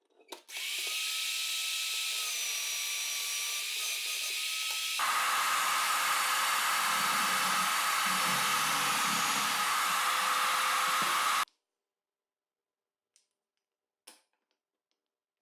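Electric drill starting up and running with a steady motor whine, then, about five seconds in, a louder, rougher sound of the bit boring into wood. It cuts off suddenly, leaving near silence with a couple of faint clicks.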